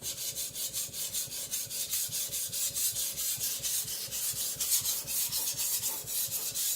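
Steel Chinese cleaver blade scraping back and forth on a wet whetstone in quick, even strokes, about six a second, grinding the edge bevel.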